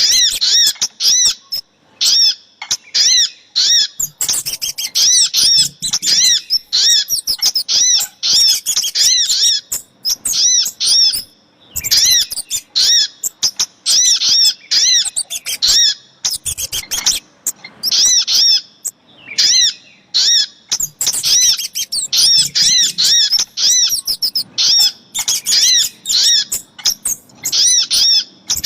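Bird-lure recording of crimson sunbird (sogok ontong) calls mixed with kemade calls: rapid runs of short, high, arched chirps, several a second, in phrases broken by brief pauses.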